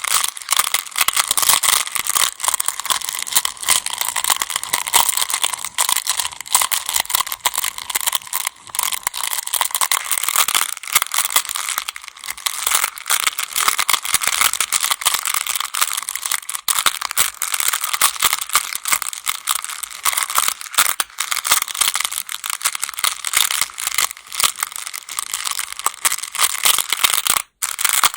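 Go (baduk) stones clattering against one another in a dense, continuous rattle of small clicks. It breaks off for a moment near the end.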